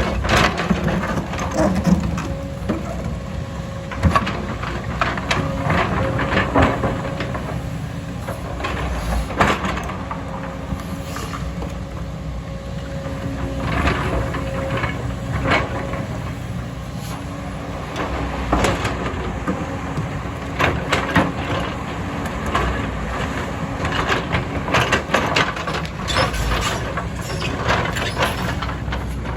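Diesel engine of a heavy earthmoving machine (bulldozer or excavator) running steadily under work, with many irregular sharp clanks and knocks throughout.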